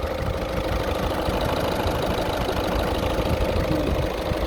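Skoda Octavia 1.6 TDI four-cylinder diesel idling steadily while still cold from a winter start, running evenly with no sign of a fault.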